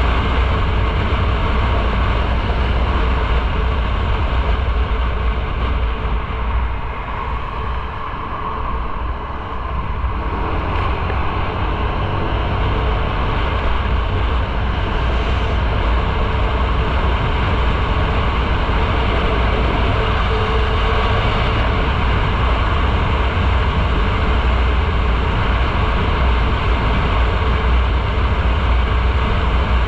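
Motorcycle on the move: wind rushing over the microphone with engine and road noise underneath. It eases a little about six seconds in and builds back up a few seconds later.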